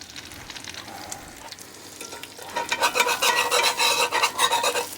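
Quesadilla frying in butter in a cast iron skillet, with a steady soft sizzle. About halfway through a louder scraping starts, a spatula rubbing against the pan under the tortilla, with a faint squeal in it.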